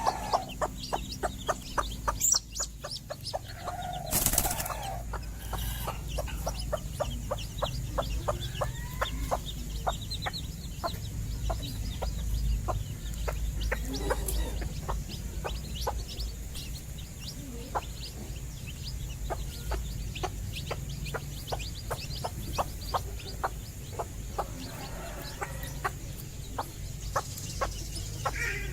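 Hens clucking, with many short, quick clicks and a brief burst of wing flapping about four seconds in.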